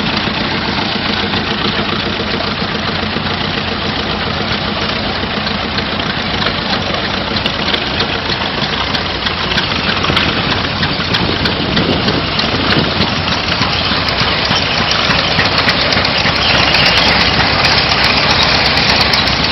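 An engine running steadily at idle, getting a little louder in the last few seconds.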